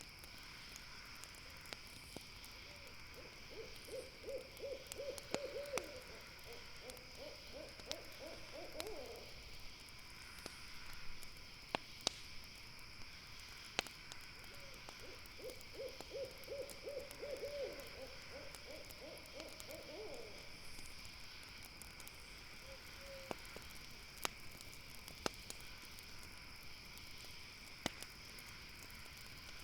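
An owl calls twice, each time a run of rapid hoots a few seconds long that ends in a wavering trill, the first starting about three seconds in and the second about halfway through. Throughout, a campfire crackles with scattered sharp pops, over a steady high-pitched background drone.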